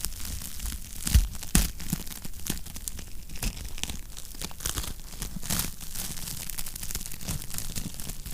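Wood fire crackling in a fireplace: a dense run of small irregular pops and snaps, with two louder pops about a second in.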